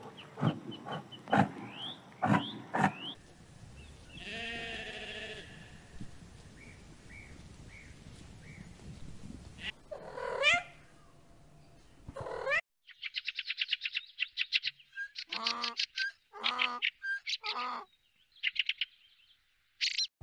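A string of separate animal calls: short rising cries early on and one about halfway through, then fast high bird-like trills broken by a few longer calls.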